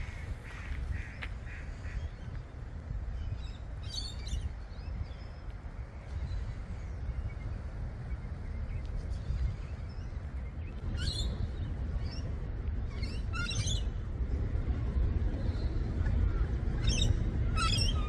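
A few short, high bird calls at scattered moments over a steady low rumble of wind on the microphone.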